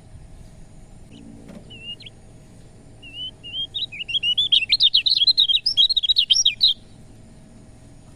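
Kecial kuning, a yellow white-eye, singing: a few short thin calls, then a fast, loud twittering run of quick rising and falling notes that builds for a few seconds and cuts off suddenly.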